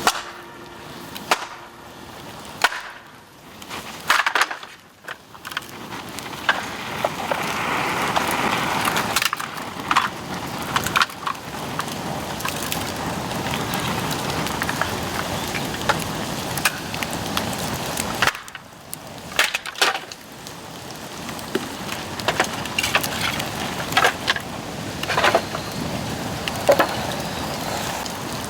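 Bamboo fire burning with a steady hiss and many sharp cracks and pops, quieter for the first few seconds.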